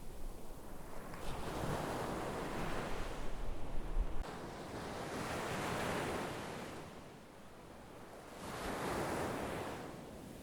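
Sea waves breaking and washing up the shore. The surf swells and fades three times, about every three to four seconds.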